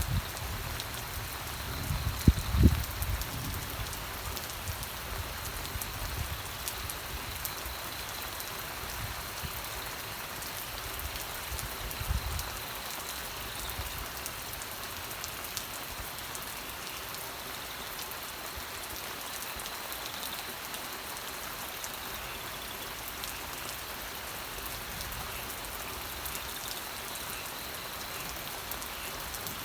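Steady rain falling, with a continuous hiss and many individual drops ticking on a surface. A few low thumps come in the first dozen seconds, the loudest about two and a half seconds in.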